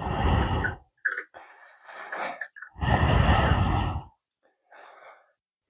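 A man breathing out heavily close to the microphone, twice, with a few faint clicks between the breaths.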